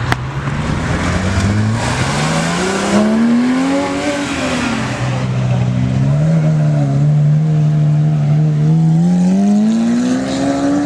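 A supercar's engine revving loudly. Its pitch climbs for a couple of seconds and falls back, holds steady for a while, then climbs again near the end.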